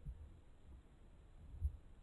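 Quiet background with two faint low thumps, one just after the start and a slightly stronger one about a second and a half in.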